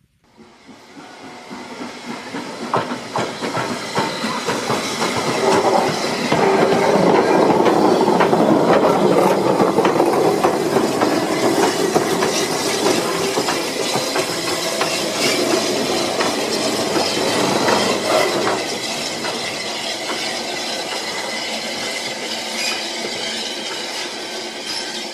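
Train running past on the rails, its wheels clicking over the rail joints. It builds over the first several seconds and eases off slightly after about eighteen seconds.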